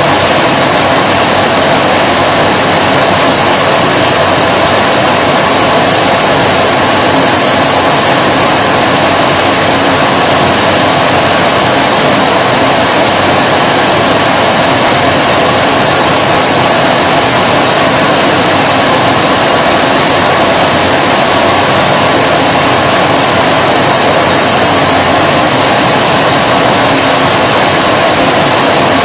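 Vacuum cleaner motor running steadily: a loud, constant whooshing hum with no change in pitch or loudness.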